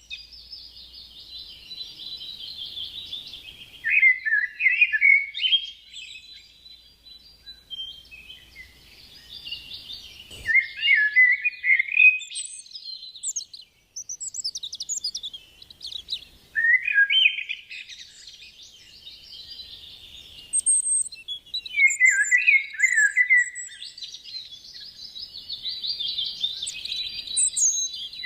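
Songbirds singing: a steady background of high chirping with louder warbled phrases, each dropping in pitch, coming back every five or six seconds. A single brief click about ten seconds in.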